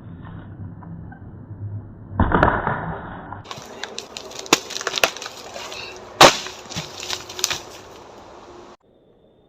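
Strikes against a dry, dead tree trunk, with wood cracking and splintering: a heavy crunch a little over two seconds in, then a run of sharp knocks and crackling, the loudest knock about six seconds in, stopping abruptly near the end.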